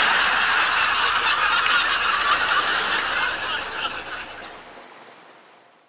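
Heavy rain pattering steadily, a downpour sound effect that fades out over the last couple of seconds.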